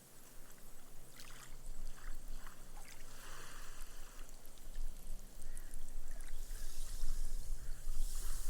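Small, gentle waves washing up a sand beach and soaking into the sand, the foam fizzing and crackling as it sinks away. The wash swells in patches and grows louder about a second in.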